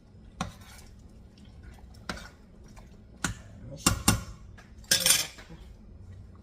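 Kitchen utensils knocking and clinking against a soup pot. There are a handful of separate knocks, two loud ones close together about four seconds in, then a longer clatter about a second later.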